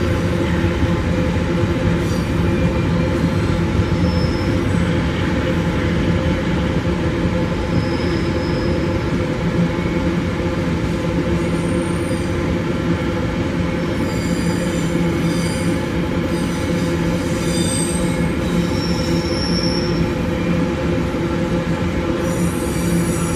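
Empty iron-ore wagons rolling past on steel rails: a steady rumble of wheels on track, with brief high-pitched wheel squeals coming and going, more often in the second half.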